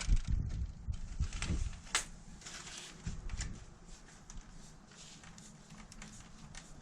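Scattered light clicks and knocks with low thumps, as of objects being handled and set down, busiest in the first few seconds and then quieter.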